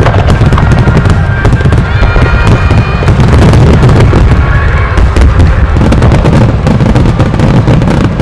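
A dense barrage of fireworks going off without pause: many shells bursting close together over a continuous deep rumble, with some held, whistle-like tones above the bursts.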